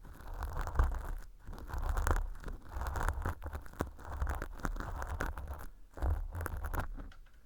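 Ear pick scraping and scratching dry, flaky fake earwax inside a mock ear canal lined with fluffy velcro: dense crackly scratching in strokes. It breaks off briefly about a second in and again near six seconds, and stops just before the end.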